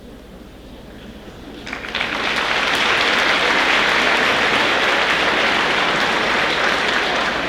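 Large audience applauding, the clapping breaking out suddenly a little under two seconds in and then holding steady and full.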